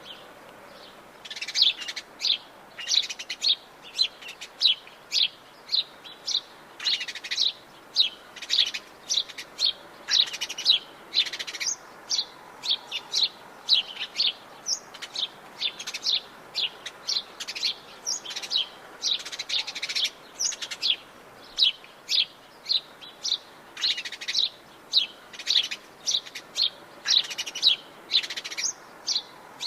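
Wild forest birds chirping: a steady run of short, high notes, about two or three a second, over a faint background hush.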